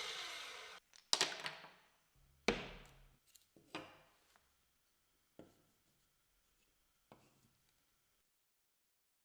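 A power tool's motor spinning down with a falling whine, followed by five separate knocks and clatters of tools or wood being handled.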